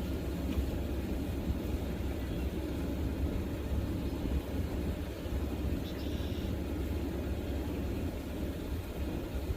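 Steady low rumble of background noise, with a faint short higher sound about six seconds in.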